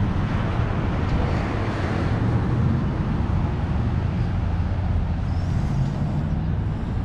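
A car engine running at a steady idle, a constant low rumble.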